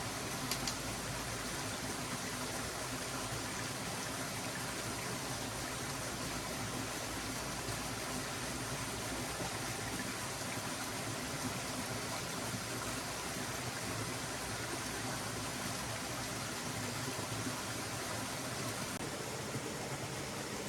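Stream water flowing steadily, an even rushing with one faint click about half a second in.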